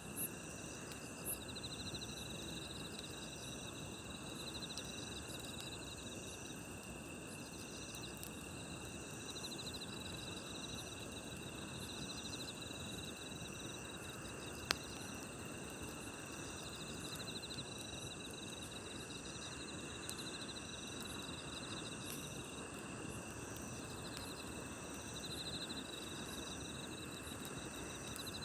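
Crickets and other night insects trilling steadily in several overlapping layers, some in pulsing bursts, over the low rush of a campfire. The fire gives a few sharp crackles near the start and a single pop about halfway through.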